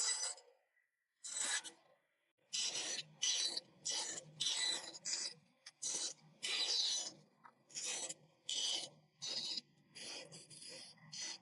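A hand tool cutting into a wooden board in about a dozen quick strokes, each under half a second, with brief pauses between them.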